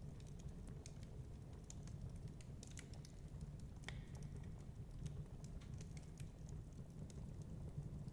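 Wood fire crackling: irregular sharp pops and snaps, one louder crack about four seconds in, over a steady low rumble.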